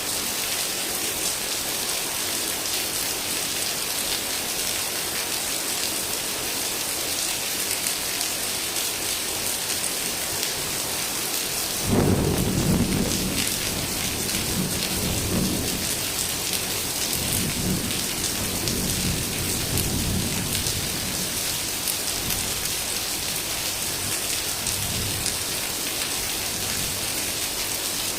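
Heavy rain falling steadily. Near the middle a sudden clap of thunder breaks in, then rumbles on in waves for about ten seconds before fading back under the rain.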